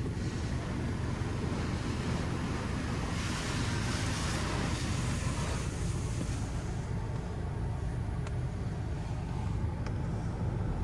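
Pro Navigator touchless automatic car wash at work on a car: a steady rushing of spray over a low rumble, the hiss swelling from about three to six seconds in.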